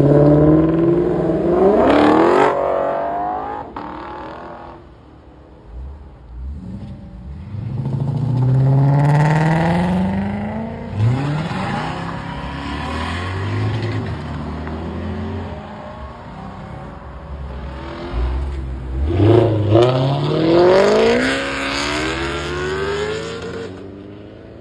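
Car engines accelerating hard, rising in pitch in three loud surges spaced several seconds apart, with lower, steadier engine running between them.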